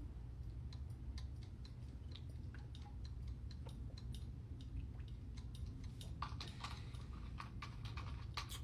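Faint, irregular small clicks and ticks over a steady low hum, growing busier from about six seconds in.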